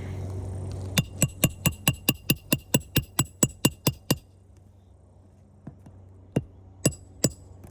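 Hammer rapidly driving a roofing nail through an asphalt shingle: a quick run of about fifteen sharp, ringing metal-on-metal strikes at about five a second, followed by four slower single taps near the end.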